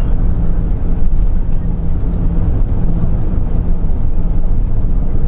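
Airbus A340 cabin noise during taxi: a steady low rumble of the idling jet engines and the rolling airframe, with a low hum that comes and goes.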